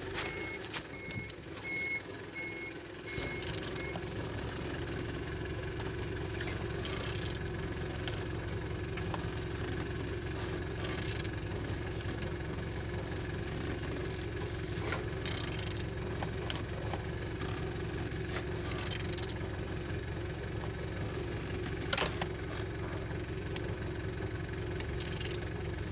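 BMW M57D30 3.0-litre straight-six common-rail turbodiesel starting up and settling into a steady idle about three seconds in, running evenly, with a single sharp click about 22 seconds in.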